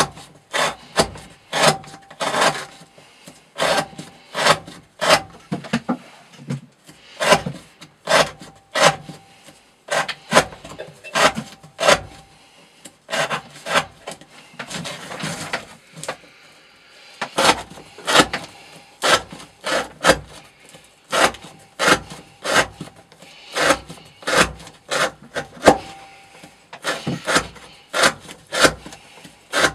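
A knife blade drawn in repeated rasping strokes, about one or two a second, with a break of a few seconds about halfway through.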